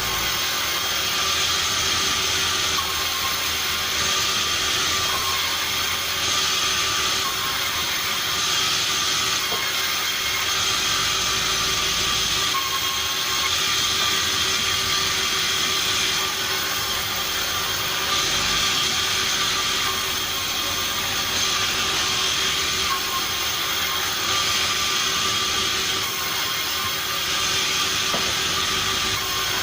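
Sawmill machinery running steadily: a loud, even mechanical hiss with a constant whine, swelling slightly every few seconds.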